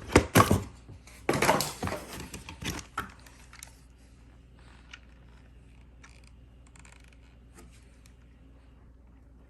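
Vacuum parts and packaging being handled: a quick flurry of plastic clicks, knocks and rustles over the first three or four seconds, then only a few faint ticks.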